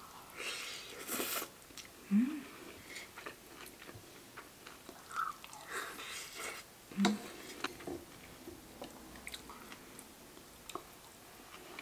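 Close-miked biting and chewing of mouthfuls of bibimbap, mixed rice and vegetables, eaten with chopsticks. Two fuller bites come at the start and about six seconds in, with small wet mouth clicks between them. Two short low hums stand out, the first of them the loudest moment.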